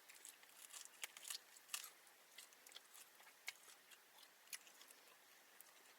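Faint chewing of steak: scattered, irregular wet mouth clicks and smacks, a few sharper ones about a second and a half in.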